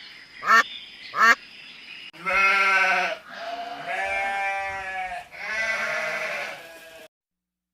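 Two short duck quacks, then three long bleats, each a second or more, from a farm animal such as a sheep or goat. The sound cuts off abruptly near the end.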